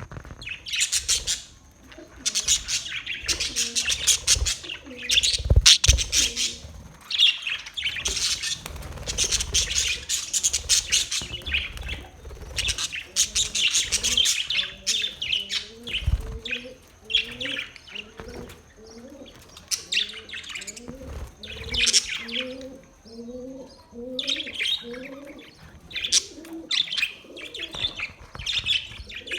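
Budgerigars chirping and warbling in a dense, constant chatter. Through the second half a lower rising call repeats a little more than once a second. There are a few low thumps.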